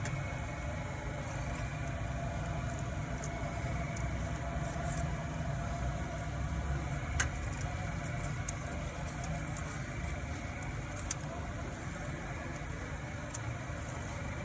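Toyota Corolla XLi engine idling steadily, with scattered light clicks over it and a sharper tick about seven seconds in and again about eleven seconds in.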